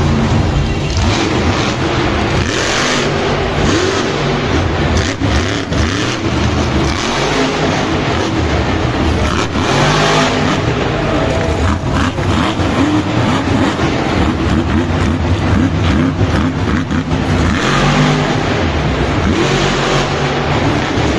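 Monster truck engines running loudly and revving over and over, the engine pitch climbing and dropping throughout.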